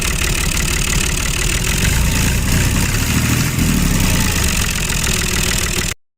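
A motor running steadily with a rough, rattling tone, cutting off abruptly near the end.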